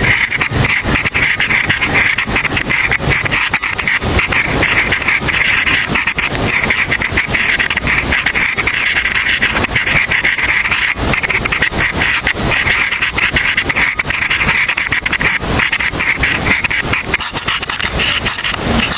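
Pen writing on paper: continuous close-up scratching strokes.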